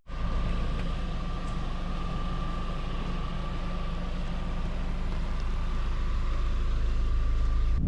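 Car driving: steady low engine and road rumble with a thin, steady high whine above it, growing slightly louder toward the end.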